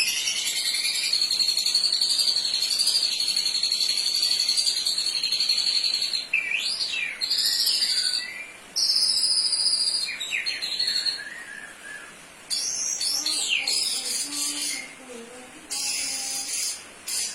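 White-rumped shama (murai batu) singing: a long unbroken high-pitched trill for about the first six seconds, then varied whistled phrases with quick rising and falling sweeps, broken by short pauses.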